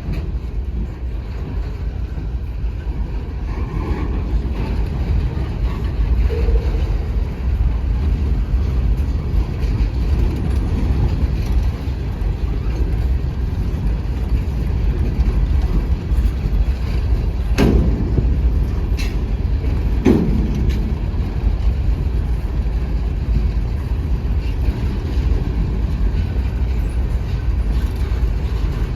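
Freight train's steady low rumble, with two sharp knocks about two and a half seconds apart past the middle.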